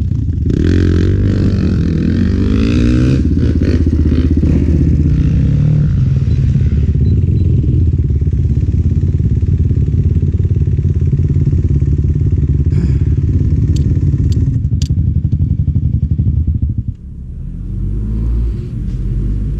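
Enduro motorcycle engine running under load: the revs climb over the first few seconds, then hold steady for a long stretch, with a few sharp clicks near the middle. About three-quarters of the way through the engine drops suddenly to a lower, rougher note.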